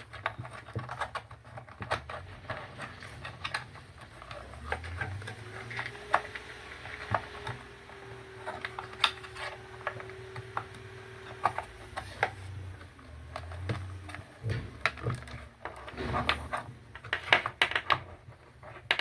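Irregular small plastic clicks, taps and rattles of phone-charger cable tips and a plastic charging-station housing being handled, with a faint steady tone for a few seconds in the middle.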